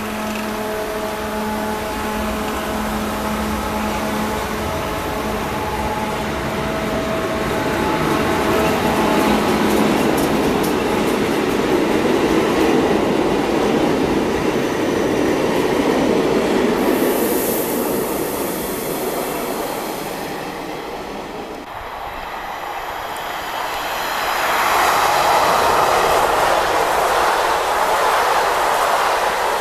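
A Transilien line N double-deck electric train pulls away from the platform: a few steady whining tones at first, then the rolling noise of its wheels builds as it leaves. A brief high hiss comes partway through. After an abrupt break, a second double-deck train passes at speed, its wheel rolling noise growing loud.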